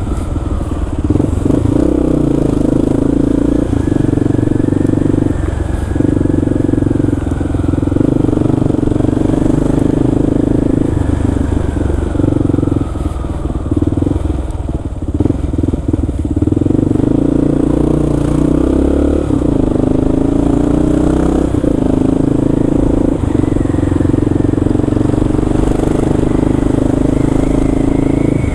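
Kawasaki KLR650's single-cylinder engine running as the bike is ridden. Its pitch rises and falls several times as it speeds up and slows, with a brief drop in level about halfway through.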